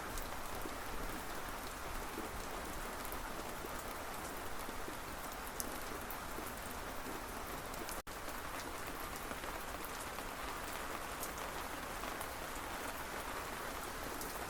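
Steady rain falling, an even hiss with scattered sharp drip ticks, broken by a split-second dropout about halfway through.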